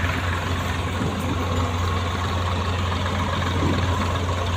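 Heavy vehicle engine idling steadily, with a constant low hum.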